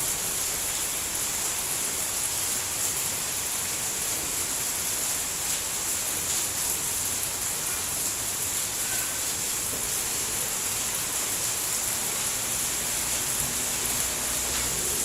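Steady rain falling, an even dense hiss without let-up.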